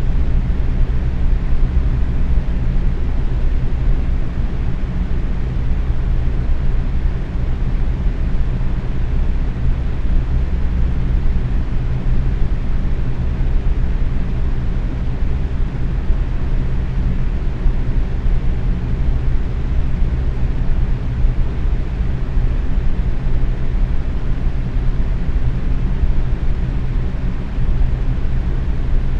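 Box fan running steadily on medium speed: a constant low whoosh of moving air with a faint hum underneath.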